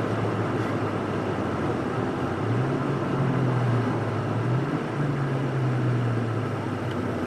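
Ford Fiesta ST's turbocharged 1.6-litre four-cylinder engine heard from inside the cabin, driving on the track with steady road and wind noise. The engine note steps up in pitch about two and a half seconds in, dips briefly near five seconds, rises again and falls near the end.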